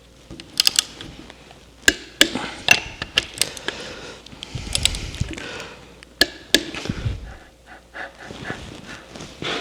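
Metal parts and hand tools clinking and knocking on a workbench, a string of sharp clicks with a couple of duller thuds, as a shim is added under a steering box cover and the cover is refitted.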